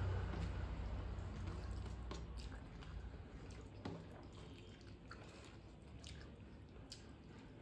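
A person chewing mouthfuls of rice and curry close to the microphone, with wet squishing and small clicks; louder in the first couple of seconds, then softer.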